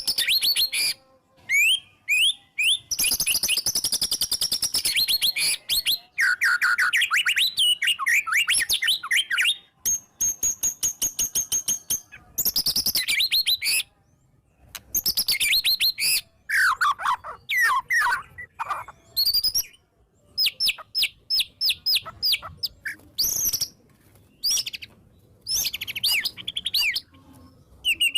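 White-rumped shama (murai batu) singing loudly and continuously. Its varied song runs through rapid strings of repeated notes, sweeping whistles and high trills with short pauses between phrases, and it is full of mimicked fill phrases.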